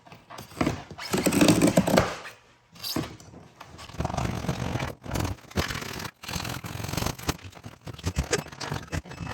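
Hand work on the door's padding material: irregular scraping and rustling with a few knocks.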